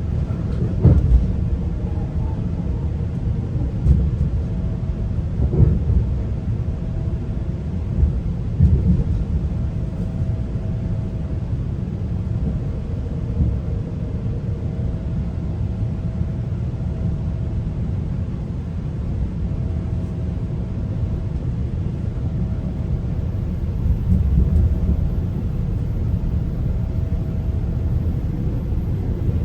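Low running rumble of a GO Transit commuter train, heard from inside a coach, with a few louder thumps in the first nine seconds and a faint steady hum.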